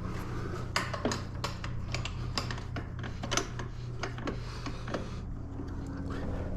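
Irregular light metal clicks and taps from hand tools working on the dirt bike's bolts, a few a second, over a steady low hum.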